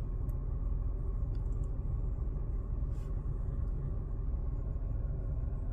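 Nissan Micra K14's engine idling, a steady low rumble with no change in speed.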